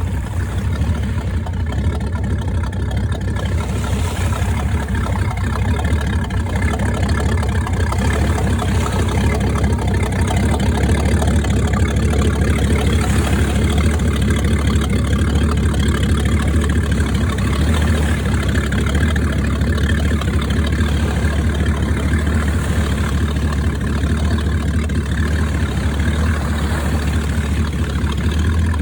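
Motorboat engine running steadily with a low, constant hum, under a steady rushing noise.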